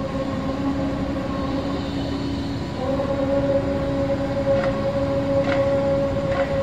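A steady, trumpet-like drone of held low tones, the kind of unexplained 'strange sound' heard from the sky. A higher tone joins about three seconds in and grows louder.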